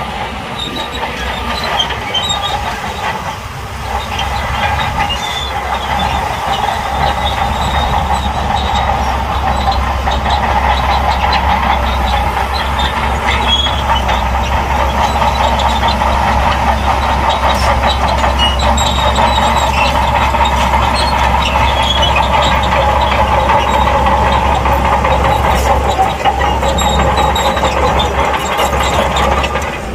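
Crawler bulldozer working: its diesel engine running steadily under load with the continuous clatter and squeal of steel tracks, growing louder after about four seconds.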